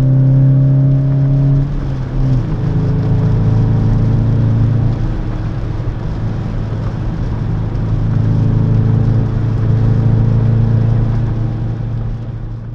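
2017 Skoda Octavia RS's turbocharged 2.0-litre four-cylinder petrol engine under way, heard from inside the cabin with road noise. It pulls with a slowly rising pitch, breaks off in a gear change about two seconds in, then runs steadily at a lower pitch and eases off near the end.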